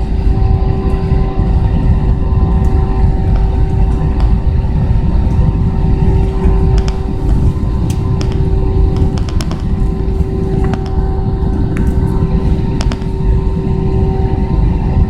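Airbus A320 heard from inside the cabin: a steady, loud low rumble with a steady humming tone over it and a few faint clicks.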